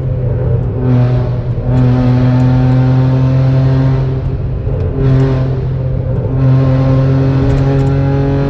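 Ford Figo with an aftermarket exhaust, its engine held at steady raised revs with an even, droning note. The throttle is opened and eased back a few times, so the exhaust sound swells and falls while the pitch stays nearly level.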